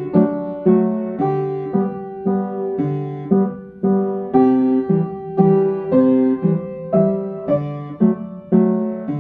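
Piano playing a gentle melody over left-hand chords in three-four waltz time, each note struck and left to ring.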